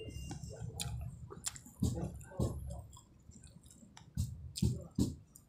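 A person chewing a mouthful of nasi Padang close to the microphone, with wet mouth clicks and smacks. A few sharper smacks come in the second half.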